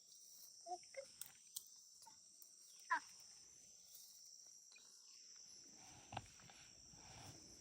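Near silence: a faint steady high hiss, with a few brief faint chirps, the clearest about three seconds in.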